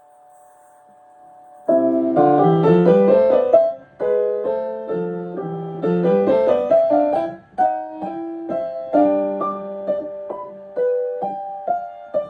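Piano playing. After a faint steady hum, the playing starts about a second and a half in with repeated rising runs of notes, then goes on with separate notes and chords.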